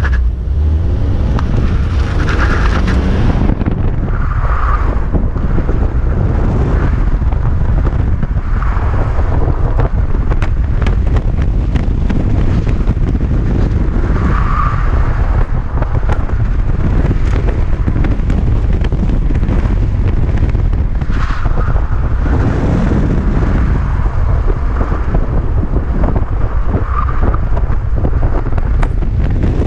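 2012 Mazda 3 driven hard through an autocross course: the engine runs loudly under load with steady road noise, and the tyres squeal briefly at several points in the corners.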